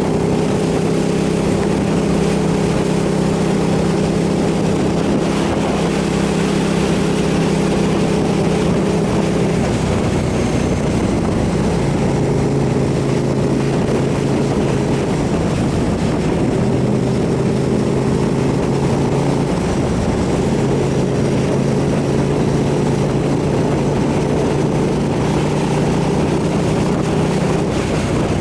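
KTM 990 SMR's V-twin engine running under way, with wind rushing over the microphone. The engine note drops in pitch about ten seconds in and rises again a little after twenty seconds.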